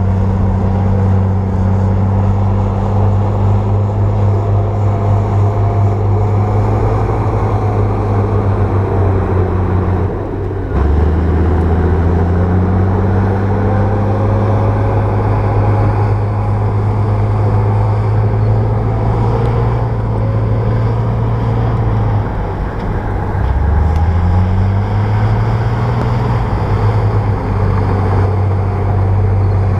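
Bulldozer's diesel engine running under load with a steady low drone. Twice the engine note drops and then climbs back as it revs up again.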